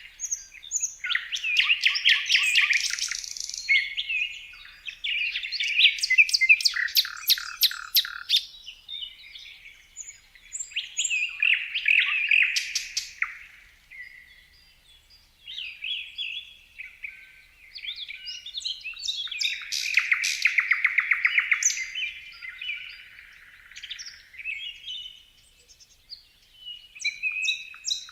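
Songbirds singing: quick chirps and fast trills in phrases a few seconds long, with a short lull about halfway through.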